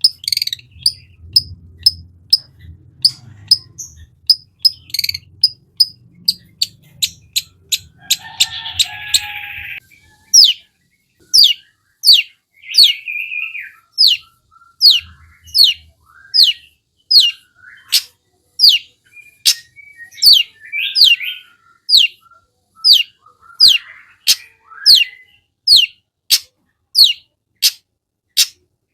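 Long-tailed shrike singing a fierce, mimicry-filled song: rapid sharp high calls about three a second, a harsh chattering burst about eight seconds in, then a steady run of sharp falling notes a little under twice a second.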